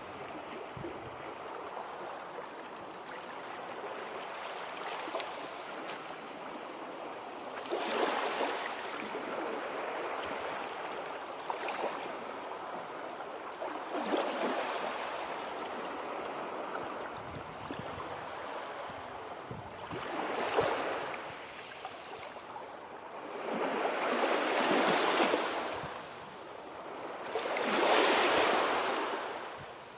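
Sea waves breaking and washing on a shore, a steady wash with louder surges every few seconds, the biggest near the end.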